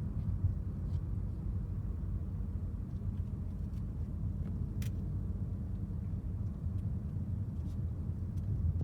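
Steady low rumble of a Ford car driving, engine and tyre noise heard from inside the cabin, with a few faint clicks and one sharper click about five seconds in.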